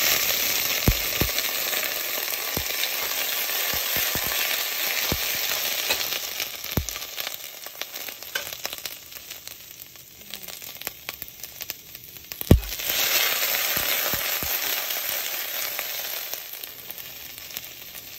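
Whole grape tomatoes sizzling in a hot oiled steel pot, with scattered pops. The sizzle dies down through the middle, then flares up again after a sharp knock about two-thirds of the way through, and slowly fades.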